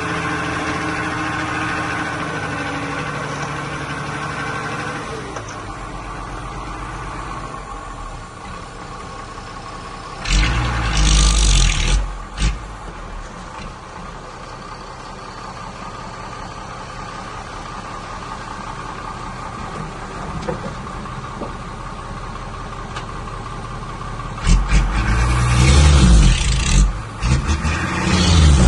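Diesel engines of earthmoving machinery running steadily, the engine note dropping lower about five seconds in. Twice, about ten and about twenty-five seconds in, a loud rushing noise with a heavy low rumble rises over the engines for two to three seconds.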